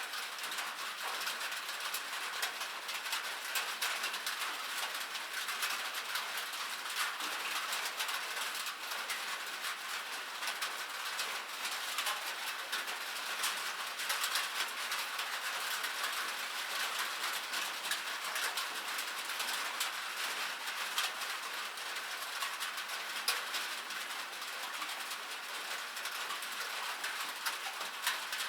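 Rain falling on a metal surface: a dense, steady patter of many small sharp drop taps over a hiss.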